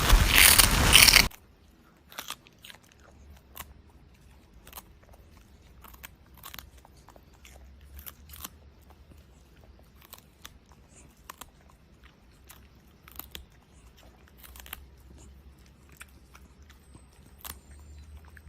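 A loud crunching noise that cuts off abruptly about a second in, then a pet chewing crunchy food: quieter sharp crunches, irregular, about two or three a second.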